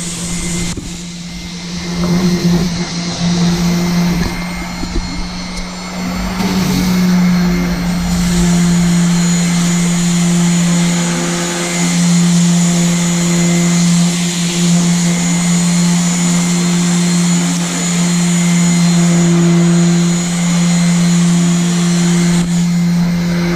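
Handheld electric sander with a spinning disc running on a boat hull: a steady motor hum with sanding noise. It dips in level for a few seconds near the start, then runs on steadily.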